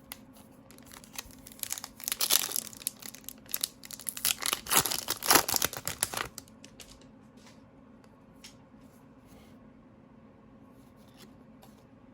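A foil trading-card pack wrapper being torn open and crinkled, starting about two seconds in and lasting about four seconds, followed by a few faint clicks.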